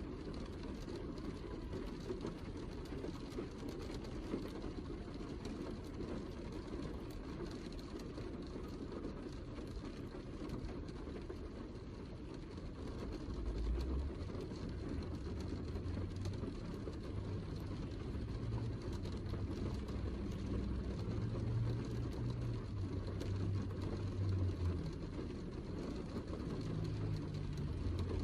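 Heavy rain falling: a steady, mostly low rushing noise with faint scattered drop ticks. A deeper rumble swells in about halfway through and comes and goes.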